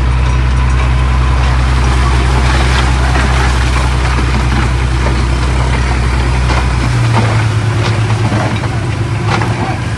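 Heavy diesel earthmoving machinery running steadily, with scattered knocks and clatter of rock being moved. About seven seconds in, the engine note changes: the deep low hum drops away and the pitch steps up slightly.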